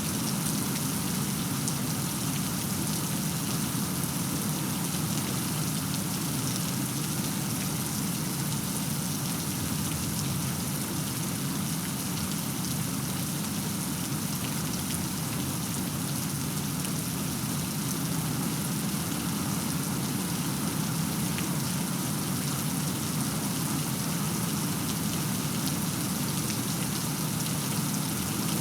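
Steady rain falling, a continuous even hiss with faint ticks of single drops through it; no thunder is heard.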